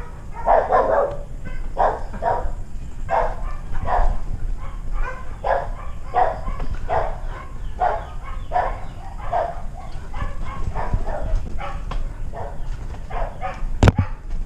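A dog barking over and over, short barks about two a second, with one sharp click near the end.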